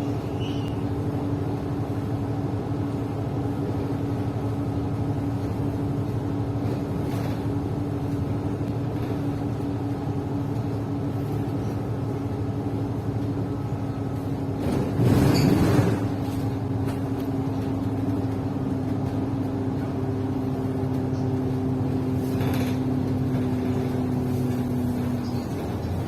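City bus engine running steadily, heard from inside the passenger cabin as a constant drone and hum. About halfway through, a loud rush of noise lasts about a second.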